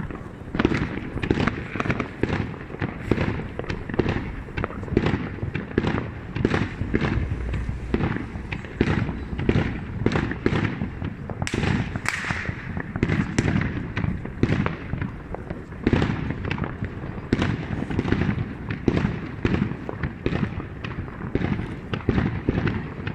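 Fireworks going off without a break: many bangs a second, overlapping and steady in density.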